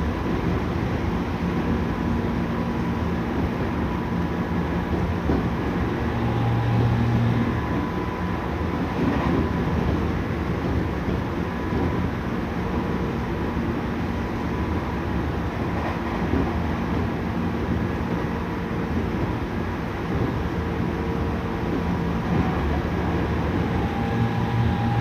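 Tokyu 5000 series electric train running between stations, heard inside the empty car: a continuous rumble of wheels on rail, with the steady hum of the Hitachi IGBT-VVVF traction equipment and motors, and a low swell in the rumble about six seconds in and again near the end.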